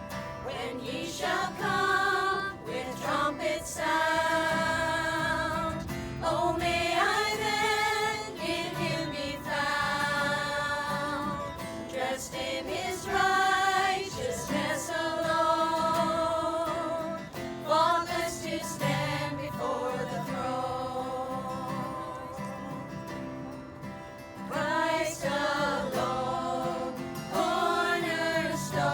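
Gospel hymn sung by voices in long held, wavering notes over instrumental accompaniment.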